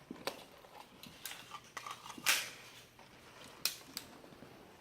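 Handgun being reloaded in a tactical reload drill: a series of sharp metallic clicks and clacks as the magazine is swapped and the slide worked. The loudest clack comes a little over two seconds in, and a quick double click follows near the end.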